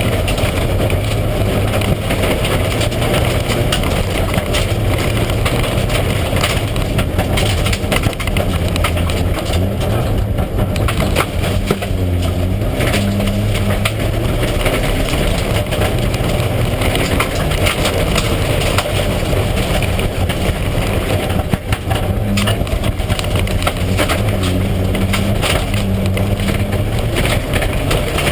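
Mitsubishi Lancer Evolution IX rally car's turbocharged four-cylinder engine running hard at stage speed, its pitch rising and falling with the gears, while loose stones clatter constantly against the car's underside.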